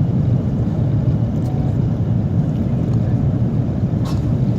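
Airbus A330 cabin noise on approach: a steady low rumble of engines and airflow heard from inside the passenger cabin.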